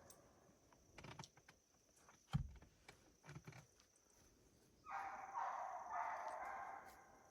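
Faint, distant hounds baying on a track, starting about five seconds in. Before that there are a few soft knocks.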